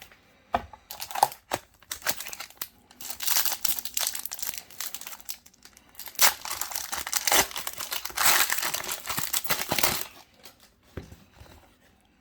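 Foil wrapper of a Pokémon trading-card booster pack being torn open and crinkled, in several bursts of rustling and tearing, with quieter pauses between them and a quiet spell near the end.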